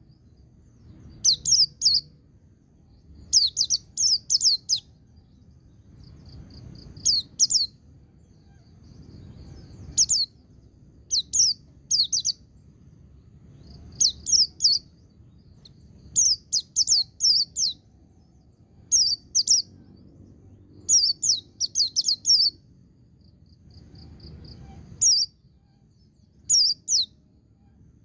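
Pleci (white-eye) singing in short, high phrases of one to four quick downward-sweeping notes, a phrase every second or two. This is the beat-counted 'ngalas' song style.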